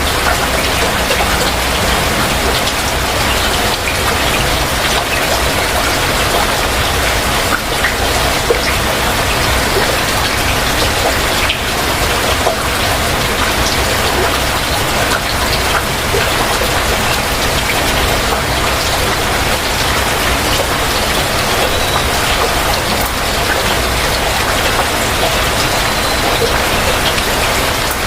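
Heavy rain falling steadily, a dense even hiss with many single drop hits close by.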